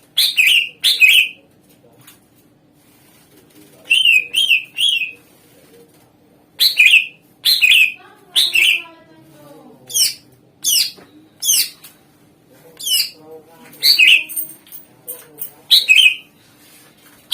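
Cucak ijo (green leafbird) song: loud, sharp whistled calls, each a quick downward sweep, in clusters of two to four with short pauses between them.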